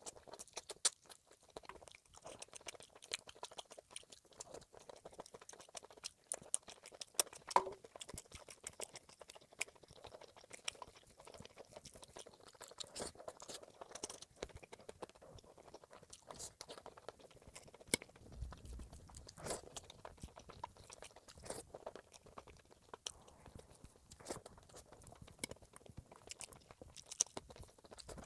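Close-miked chewing and crunching of food, with many small irregular crackles and wet mouth clicks throughout.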